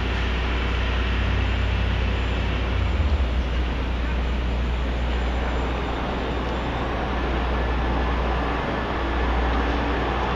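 Steady city street noise: traffic with a constant low rumble.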